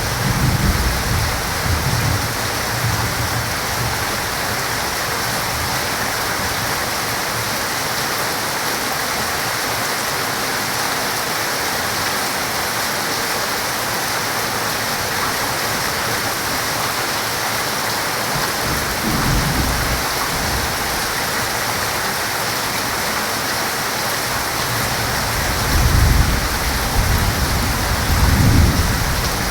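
Heavy rain falling steadily, with low rumbles of thunder at the start, a brief one about two-thirds through, and a louder, rolling rumble near the end.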